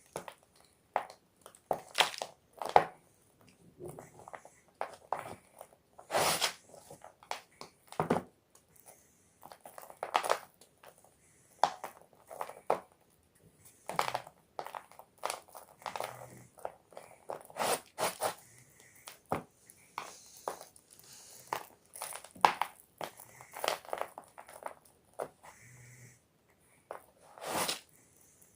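Block of gym chalk (magnesium carbonate) being crushed and crumbled, in irregular sharp crunches and crackles with short pauses between them.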